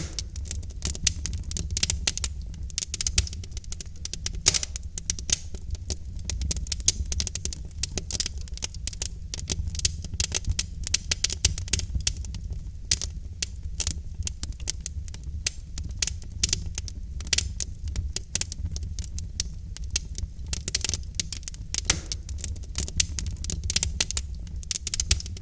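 Wood fire of burning logs crackling steadily, with many quick irregular pops and snaps over a low steady rumble of the flames.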